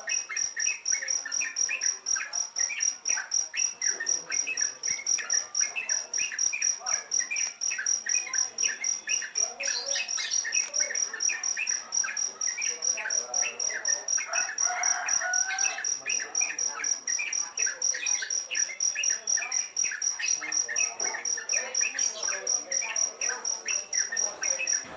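A cricket trilling steadily with rapid, even pulses, over many short, frequent chirps from yellow-vented bulbul (trucuk) chicks.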